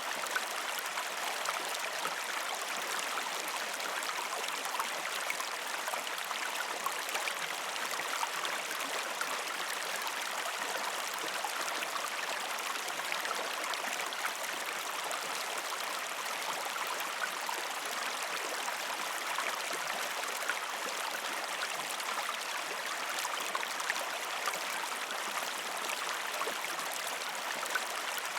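Shallow river stream flowing steadily over rocks, a constant rushing with many small splashes and gurgles.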